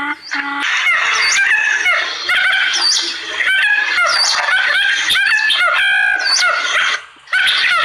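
A flock of birds chirping and squawking together in dense, overlapping calls, with a brief gap about seven seconds in.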